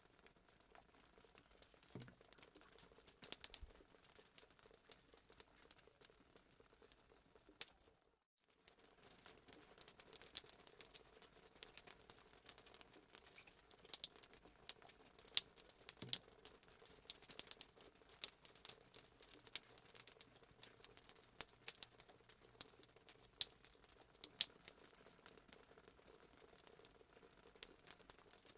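Fireplace crackling sound effect: a dense, irregular run of small pops and snaps over a faint hiss, cutting out for a moment about eight seconds in.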